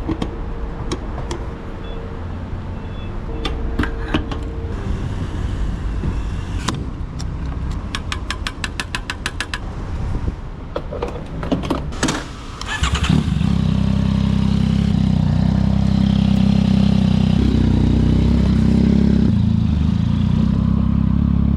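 Scattered clicks and handling noises, then about thirteen seconds in a 2024 Yamaha MT-09's three-cylinder engine starts and runs steadily.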